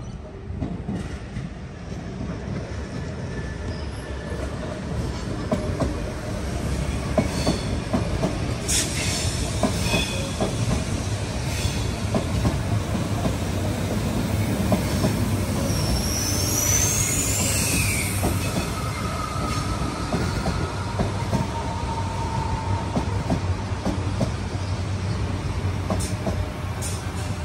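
Sydney Trains Tangara double-deck electric train rolling past close by over junction trackwork: a steady rumble with wheels clicking over the rail joints and points, and a brief high wheel squeal a little past halfway.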